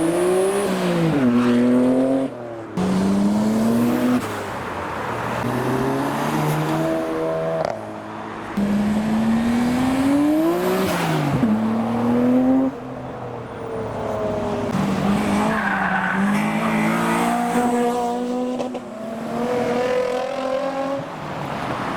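Two Nissan Skyline R32s accelerating hard past, engine notes rising and dropping back sharply again and again as they shift or lift, loud, with further modified cars following.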